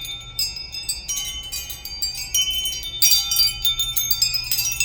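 Wind chime ringing: many high notes struck irregularly and overlapping, with a louder flurry of strikes about three seconds in.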